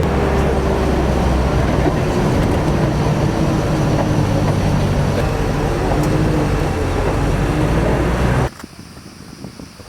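Car engine and road noise heard inside a vehicle climbing a mountain road, a loud steady rumble. It cuts off abruptly about eight and a half seconds in, leaving faint outdoor wind.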